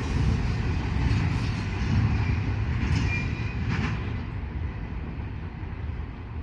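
Freight train rolling past on the rails: a steady low rumble with a couple of sharp clanks and a brief high wheel squeal about three seconds in. The sound thins out toward the end.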